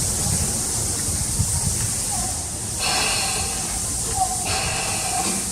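Tobu 10030 series electric train arriving at a station: a steady low rumble under a constant high hiss, with two short, high, multi-toned squeals about three and four and a half seconds in.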